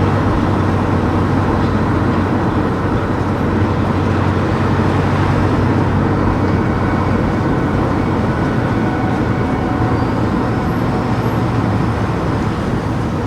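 Car driving through town streets: steady engine and tyre rumble with a low hum.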